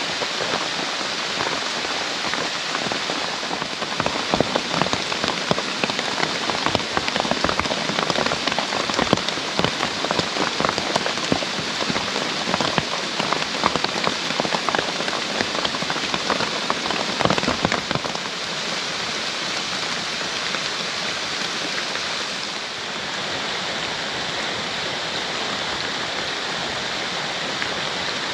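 Heavy rain falling, a dense hiss thick with the ticks of individual drops striking a surface; the drops hit hardest through the middle, then the rain settles to a steadier hiss.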